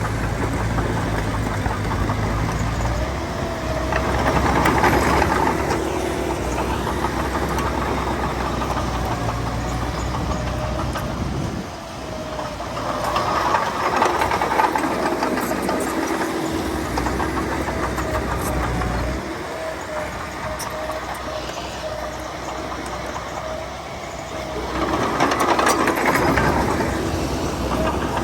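Heavy diesel engine of earth-moving machinery running steadily, swelling louder three times, about ten seconds apart, as it works under load.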